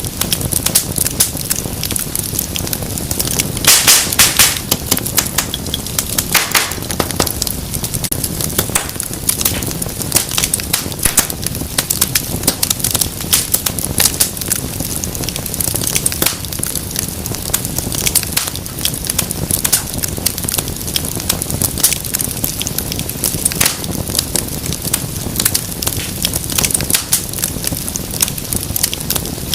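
Wood fire crackling: dense, irregular snaps and pops over a low rumble of burning, with a burst of louder pops and hissing about four seconds in and again a couple of seconds later.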